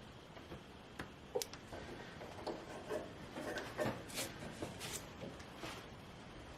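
Faint, scattered clicks and short rustles at irregular intervals.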